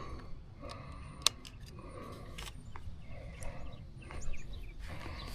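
Faint outdoor background noise with a low rumble and scattered faint sounds, broken by a single sharp click a little over a second in.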